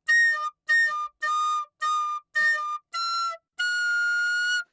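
A flute-like wind instrument playing a short solo phrase loudly: six short notes, then a slightly higher final note held for about a second.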